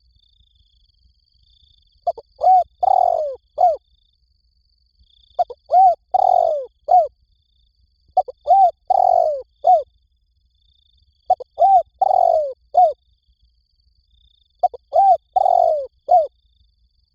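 Spotted dove cooing: five phrases about three seconds apart, each two or three short coos followed by a longer, drawn-out coo and a short final one.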